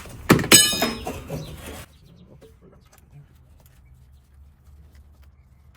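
A loud, harsh, squawking call that sounds like a chicken clucking, lasting about a second and a half near the start, followed by a faint low hum.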